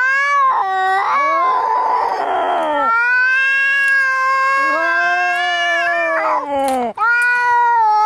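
Cats caterwauling in a fight: long, drawn-out yowls that waver and rise and fall in pitch, with a harsh, raspy cry about two seconds in and a brief break near the end.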